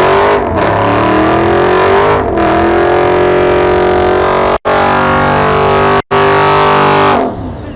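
Car engine revved hard: the pitch climbs over the first few seconds, holds at high revs, and falls away near the end. The sound cuts out twice for an instant in the middle.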